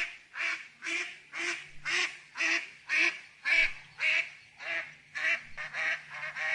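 Duck quacking: a steady series of short, nasal quacks, about two a second.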